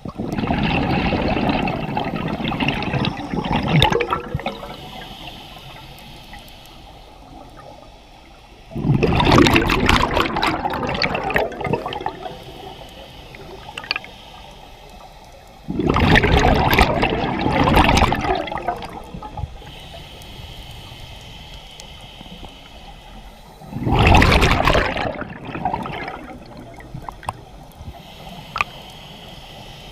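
Scuba diver's exhaled bubbles rushing from the regulator underwater, in four bursts about every seven to eight seconds, with a fainter hiss between the exhalations.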